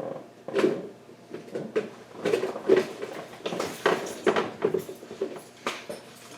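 Metal hand tools clinking and rattling as someone rummages for needle-nose pliers: a run of irregular knocks and clatters.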